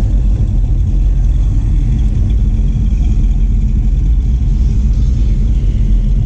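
Car engine running at low speed in crawling traffic: a steady low rumble.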